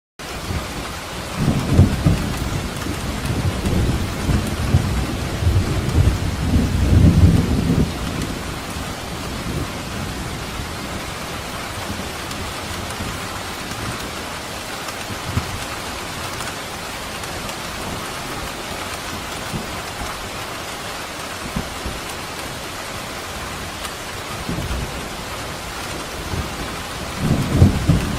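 Steady rain falling, with low rolling thunder rumbling through the first eight seconds or so and swelling again near the end.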